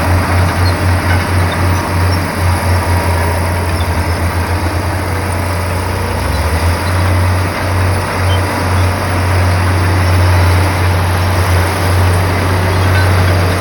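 Komatsu bulldozer's diesel engine running, a loud low throb pulsing about three times a second; a little after three seconds in the throb quickens and evens out for a few seconds, then goes back to pulsing.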